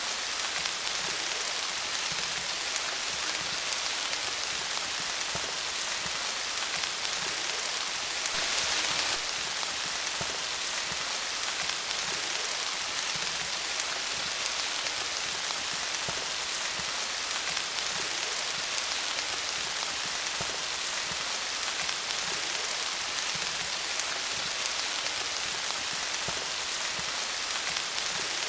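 Steady rain falling on leaves, a dense patter of drops with a slightly heavier gust of rain about eight seconds in.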